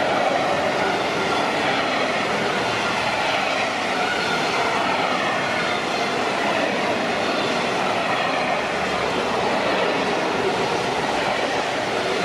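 Freight train of wagons carrying lorry semi-trailers passing close by: a steady, loud running noise of the wagons' wheels on the rails.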